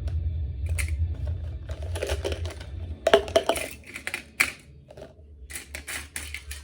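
Light clicks and clatters of makeup brushes being dropped and arranged in pen holders, the sharpest knocks about three to four seconds in, over a steady low hum.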